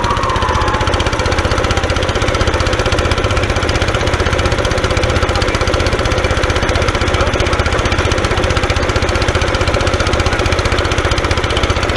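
Engine-driven air compressor running steadily with a fast, even chugging pulse. A brief high squeal fades out in the first second.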